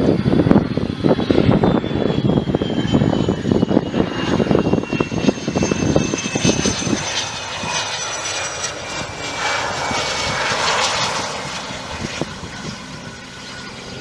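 Cessna Citation CJ1 business jet's twin Williams FJ44 turbofans at high power, a loud crackling roar with a high whine that falls steadily in pitch as the jet goes by. The roar drops away about halfway through, leaving a fainter, fading jet hiss.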